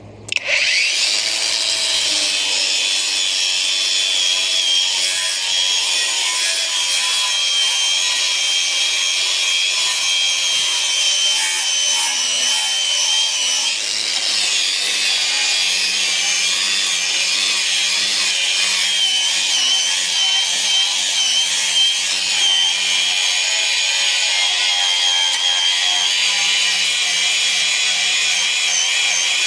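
Cordless 4½-inch angle grinder fitted with an abrasive strip disc, spinning up right at the start and then running steadily with a high whine as the disc grinds against a surface to strip paint.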